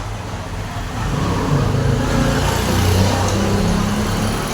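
A motor vehicle engine running, getting louder about a second in and staying up, with a low steady hum.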